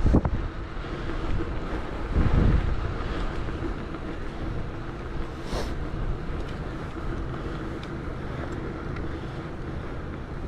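Wind buffeting the microphone and rolling road noise from a moving bicycle, with low thumps right at the start and again about two seconds in.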